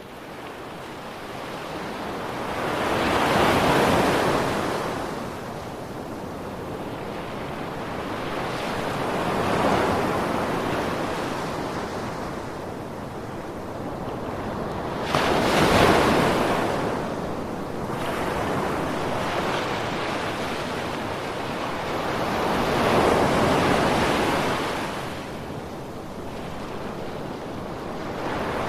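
Ocean surf breaking on a sandy beach: waves swell and recede in long rushes about every six to seven seconds, the loudest one arriving suddenly a little past the middle.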